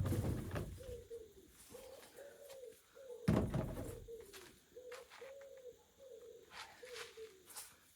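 A dove cooing over and over in short, even, arched notes. A loud knock about three seconds in.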